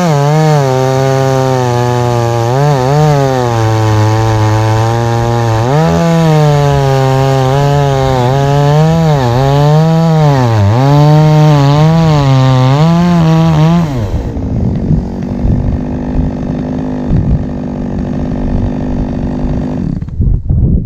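Two-stroke chainsaw cutting through a log at full throttle, its pitch sagging and recovering again and again as the chain bites into the wood. About 14 seconds in it drops to a lower, steady idle.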